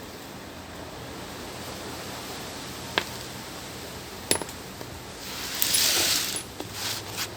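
Two sharp clinks of small hard objects, a second or so apart, then about a second of scraping or hissing noise and a couple more clicks near the end.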